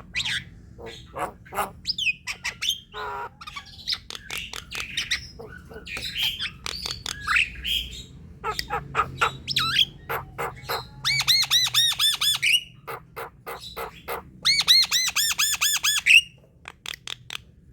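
Javan myna (jalak kebo) chattering: a varied run of harsh squawks, clicks and short whistles. About 11 and 14.5 seconds in come two fast rattling trills of ringing repeated notes, each lasting over a second, and these are the loudest part.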